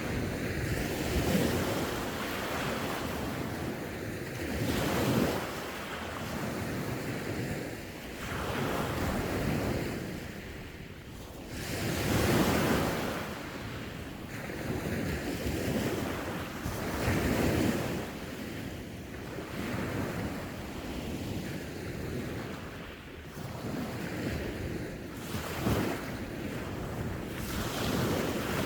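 Sea waves breaking and washing on the shore, the surf swelling and fading every few seconds, with wind buffeting the microphone.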